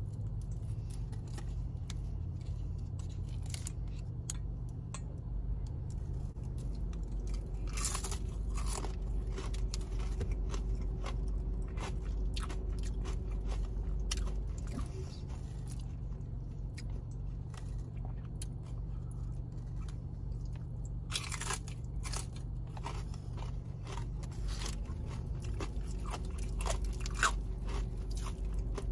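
Close-up crunching and chewing of crispy fried chicken, with the loudest crunchy bites about eight seconds in and again around twenty-one seconds, and small crackles and mouth clicks between them. A steady low hum runs underneath.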